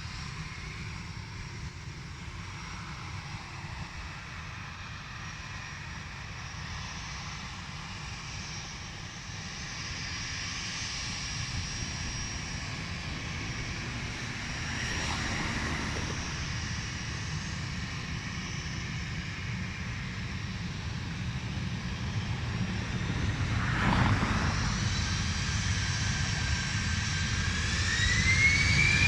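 Jet airliner engines growing steadily louder over a low rumble, with a whine rising in pitch near the end.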